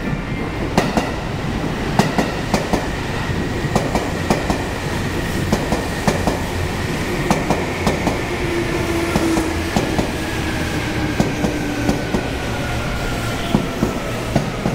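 Seibu 2000-series electric train pulling into a station, its wheels clacking over rail joints and points. A high tone slowly falls in pitch as the train slows.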